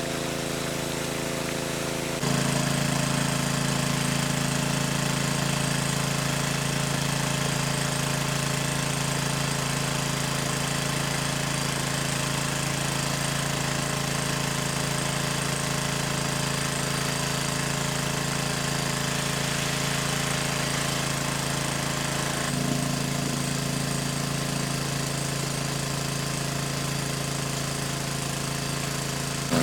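A small engine running steadily at an even pitch, with abrupt changes in loudness about two seconds in and again past the twenty-second mark.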